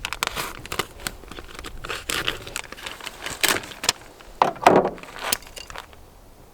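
Packaging being crinkled and torn, in a run of short rustling, crackling strokes, the loudest a little past the middle.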